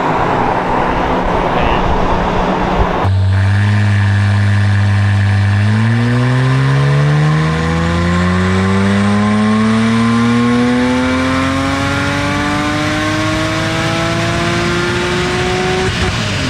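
Porsche 3.8-litre flat-six engine making a wide-open-throttle dyno pull. After a few seconds of rough running, it holds a steady note, then climbs smoothly in pitch for about ten seconds through the rev range. Near the end the throttle is closed and the pitch drops.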